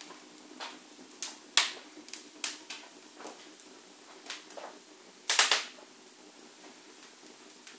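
Wood fire crackling in a corner fireplace: irregular sharp pops, with a quick cluster of louder ones a little past halfway.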